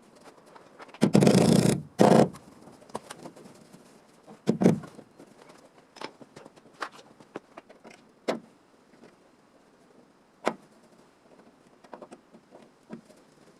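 Workshop handling noises: two loud rough scraping bursts about a second in, a heavy knock a few seconds later, then scattered light clicks and taps.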